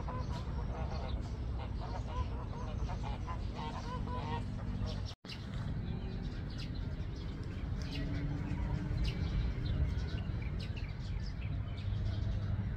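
Birds calling outdoors: repeated short pitched calls through the first few seconds over a steady low rumble of background noise. The audio drops out for an instant about five seconds in.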